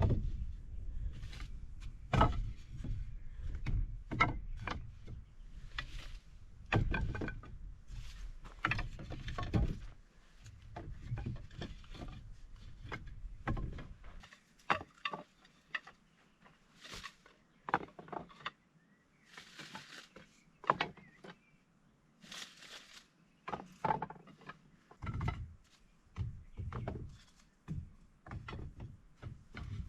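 Irregular knocks and clatter of wood being worked and handled, with a low rumble under the first half that stops about halfway through.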